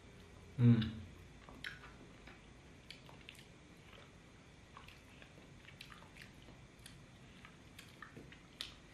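Two people eating soft durian flesh by hand: faint, scattered wet mouth clicks of chewing. One short, loud voiced sound comes from one of them a little under a second in.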